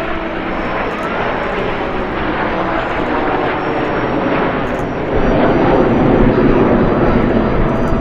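Jet aircraft of a formation aerobatic team flying by, a steady rushing jet noise that grows louder about five seconds in as they pass closer.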